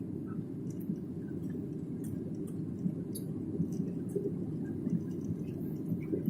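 Steady low rumble of an airliner cabin on approach: engine and airflow noise, with a few faint clicks and rattles.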